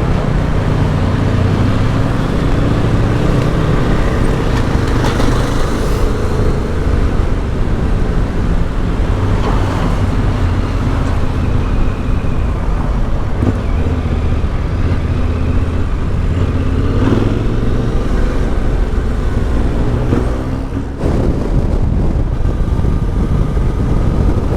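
Yamaha Ténéré 700's parallel-twin engine running steadily through an Akrapovic exhaust under way, mixed with heavy wind rush on an open-face helmet microphone. The level dips briefly near the end.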